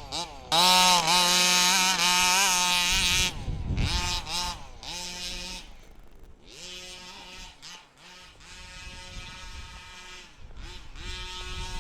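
The 29cc two-stroke engine of a 1/5-scale HPI Baja 5B RC buggy revving up and down as it is driven. It is loud and close for the first few seconds, then quieter and farther off, with repeated rises and falls in pitch.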